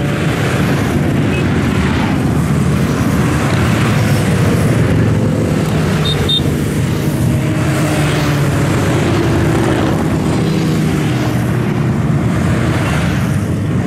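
Motorcycles and other road vehicles passing in a continuous stream, a loud, steady mix of engine noise that rises and falls in pitch.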